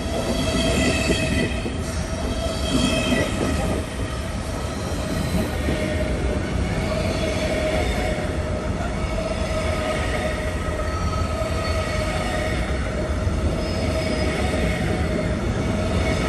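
Train running on rails with a steady rumble and high-pitched wheel squeal. The squeal is strongest in the first few seconds.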